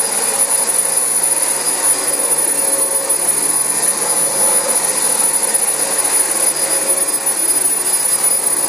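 Dyson DC25 upright ball vacuum cleaner running steadily while vacuuming carpet: an even rush of air with a thin high-pitched motor whine over it.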